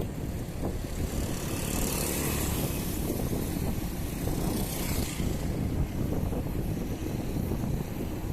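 Wind buffeting a phone microphone while riding a bicycle, with a vehicle passing: a hiss that swells and fades between about two and five seconds in.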